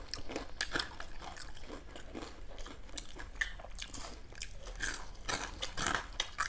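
A person chewing crispy fried fritters close to the microphone: mouth noises with many irregular crunchy crackles, several a second.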